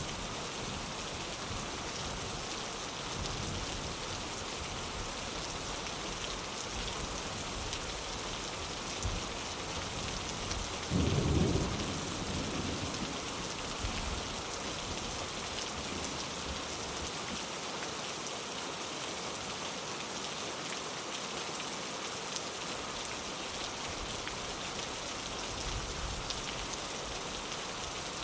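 Steady rain falling on a window, with one short low rumble of thunder about eleven seconds in.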